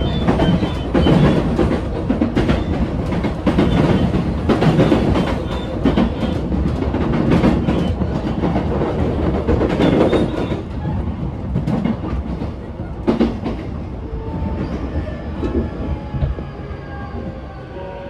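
Running sound inside a JR East E233-series electric commuter train: wheels clattering over rail joints and points with many sharp knocks, growing quieter over the last few seconds as the train slows, and a faint motor whine coming through near the end as it brakes towards the station.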